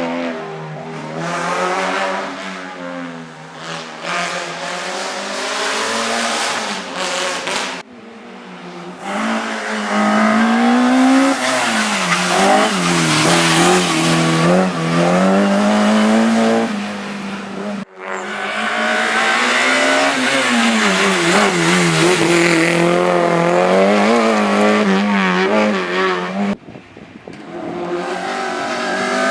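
Competition cars on a slalom course, engines revving hard and dropping back again and again as they accelerate, shift and brake through the chicanes. Three abrupt breaks, about 8, 18 and 26 seconds in, split it into separate runs.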